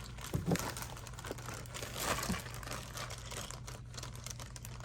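Crinkling and a few light plastic clicks of LEGO pieces and their packaging being rummaged through and handled.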